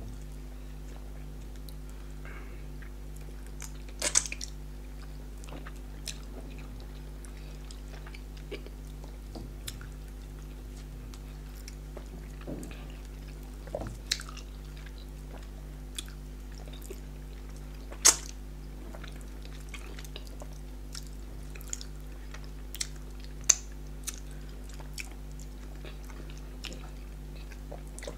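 People chewing yam fufu and tilapia in pepper soup, eaten by hand, with scattered short wet mouth clicks and smacks over a steady low hum. The sharpest clicks come about four seconds in and again about eighteen seconds in.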